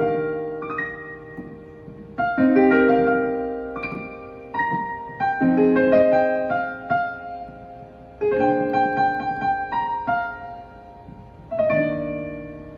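Slow solo piano music: a chord struck about every three seconds and left to ring out, with a few melody notes in between.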